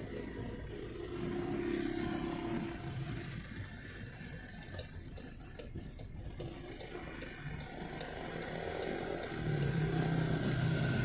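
MG5 Turbo's turbocharged engine pulling and easing off, heard from inside the car with both windows half down, with road and wind noise. A brief hiss about two seconds in as the revs drop, the aftermarket blow-off valve venting on lift-off, then the engine pulls again near the end.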